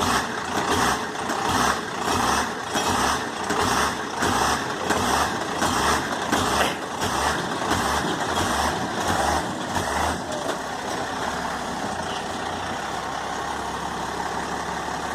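1991 Dodge Ram Cummins diesel truck running with a regular pulsing surge about twice a second as the truck is made to jump. About ten seconds in the pulsing stops and the engine settles to a steady idle.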